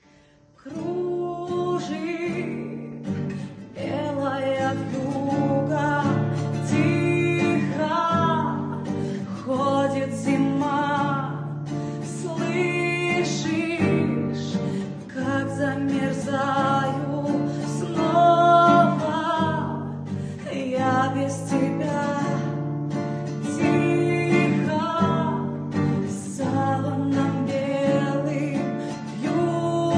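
A voice singing a song over guitar accompaniment.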